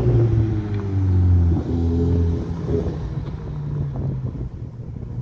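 Supercar engine running hard as the car pulls away and drives by. Its note breaks off briefly about a second and a half in, picks up again, and then grows quieter.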